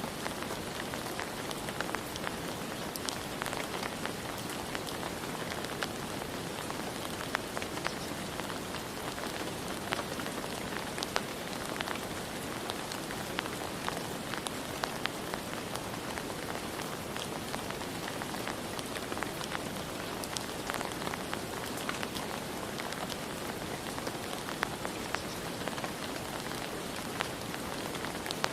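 Steady rain falling, with many individual drops ticking sharply on a hard surface throughout.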